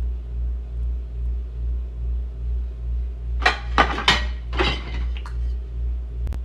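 Dishes and cutlery clinking as they are taken out of a dishwasher: a handful of sharp clatters about three and a half to five seconds in, and a single light click near the end. Under it runs a steady low hum that swells and fades about twice a second.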